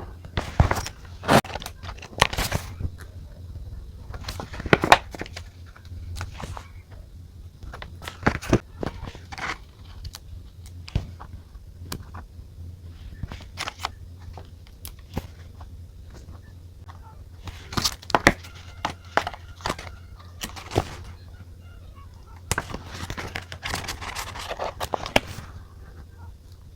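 Close-up desk sounds of journaling: scattered sharp taps and clicks of pens and stationery on paper and the desk, with a rustling, scratching stretch of paper handling near the end, over a steady low hum.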